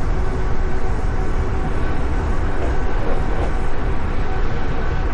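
Amtrak Empire Builder passenger train running, a steady low rumble of the cars and wheels on the track with no single event standing out.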